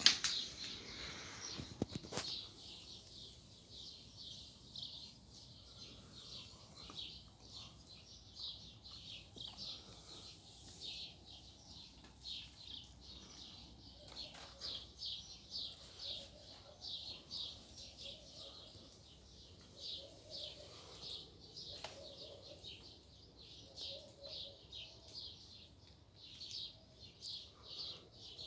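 Small birds chirping over and over, a few short high chirps each second, with some lower call notes joining in the middle and later part. A loud short knock and rustle come in the first two seconds.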